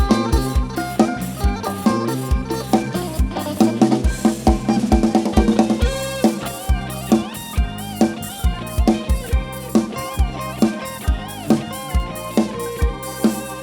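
Instrumental band music from a Thai rot hae sound-truck band played over its PA: an even drum-kit beat with bass drum and snare at about two hits a second, with a melody line that comes in about six seconds in.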